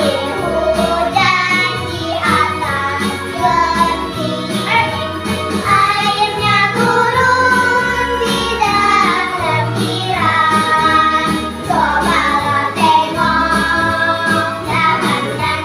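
Young girls singing a children's song together in Indonesian over a musical backing track with a low bass line.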